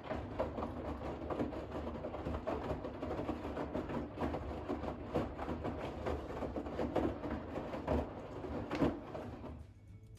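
Bosch WAX32GH1 washing machine drum tumbling a load of wet towels in the final rinse: irregular sloshing and knocking of laundry and water over the low hum of the motor, stopping about nine and a half seconds in.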